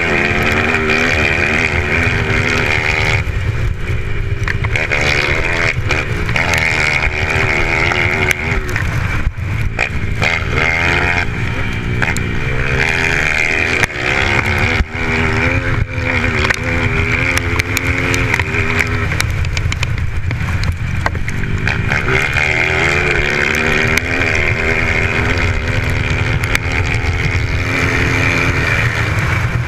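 Motocross motorcycle engine revving, its pitch rising and falling again and again as the bike accelerates and backs off.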